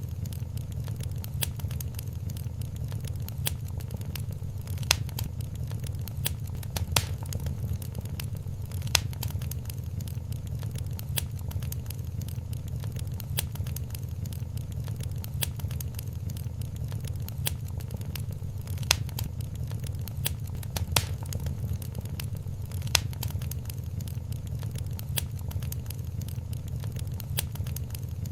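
Wood fire crackling in a fireplace: a steady low rumble of flames under constant small ticks, with a louder pop now and then.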